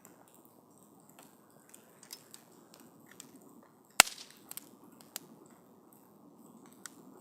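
Wood fire crackling: scattered small pops and clicks over a low, steady hiss of burning, with one sharp, loud pop about four seconds in.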